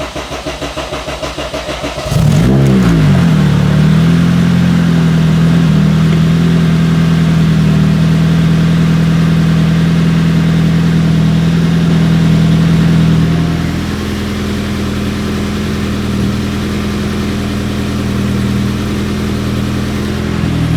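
Honda K-series four-cylinder engine cranking on the starter for about two seconds, then catching with a quick flare in revs. It settles into a steady fast idle that drops a little lower and quieter about thirteen seconds in.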